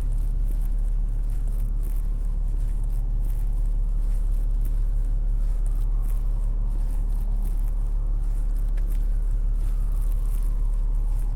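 Steady city traffic rumble with footsteps on a snowy sidewalk, and a faint distant siren rising and falling slowly in the second half.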